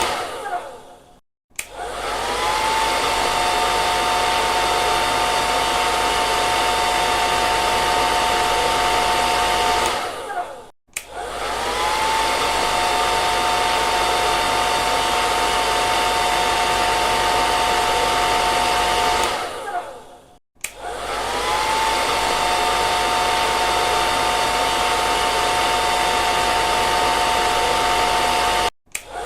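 Hand-held hair dryer blowing with a steady rush of air and a high motor whine. About every nine to ten seconds it drops out: the motor winds down, goes quiet for a moment and starts again with a rising whine. It does this four times.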